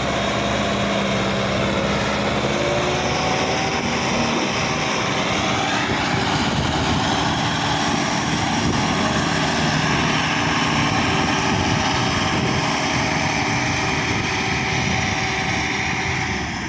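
Sonalika 750 tractor's diesel engine running hard under full load on an uphill climb, a loud steady labouring note that drops away at the very end.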